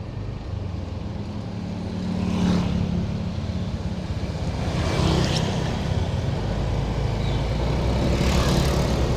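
Motor vehicle engine running while moving along a street, with road and wind noise that grows gradually louder. There are brief swells of noise about two and a half, five and eight and a half seconds in.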